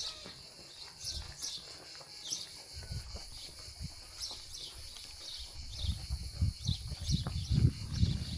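Small birds chirping in short, repeated calls about once or twice a second, over a steady high hiss; a low rumble with thumps builds from about six seconds in.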